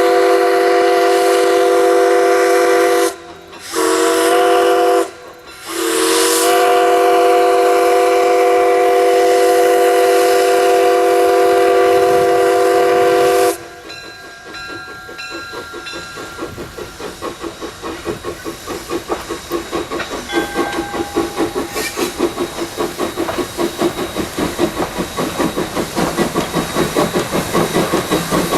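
Steam whistle of the small 0-4-0 tank locomotive Jeddo Coal Company No. 85, blown as one long multi-note blast with two brief breaks early on, cut off about halfway. The locomotive then works away with a rhythmic exhaust chuff and hiss that grows steadily louder.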